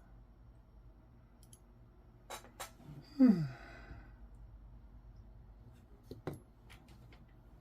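A man's sigh, a short voiced exhale falling in pitch, about three seconds in. A few faint sharp clicks come before it and near the end.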